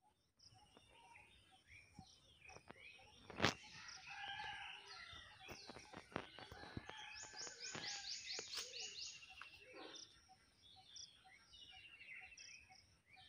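Several birds chirping and calling at once, with a quick run of repeated high notes a little past the middle. A single sharp click about three and a half seconds in is the loudest sound.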